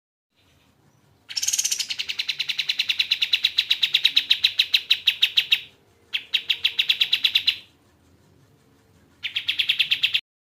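Kapas tembak bird singing a rapid trill of sharp repeated notes, about nine a second, in three bursts: a long one of over four seconds, then two shorter ones, the last cutting off suddenly.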